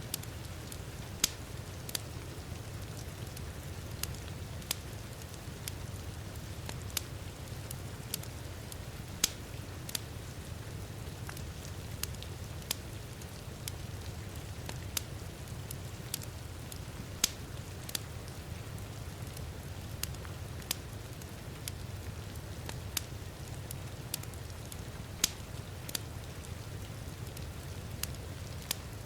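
Wood fire crackling in a fireplace, sharp pops every second or two, over a steady hiss of heavy rain.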